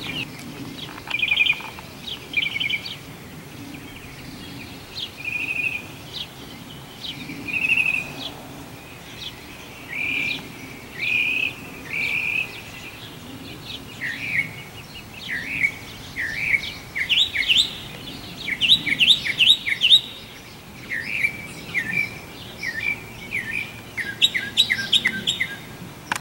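Small songbirds singing: short repeated chirping phrases, with denser runs of quick sweeping notes past the middle and again near the end.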